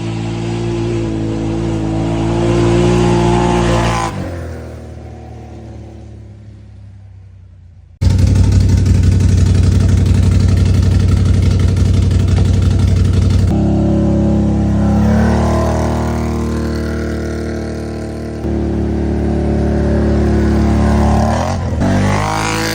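Can-Am Outlander 570 ATV's Rotax V-twin running through a Spintech aftermarket exhaust with shortened baffles, in several clips joined by hard cuts. First the quad drives past and fades away. About eight seconds in it is suddenly loud and steady, idling and revving in a garage. It then drives by again, its engine note falling and rising.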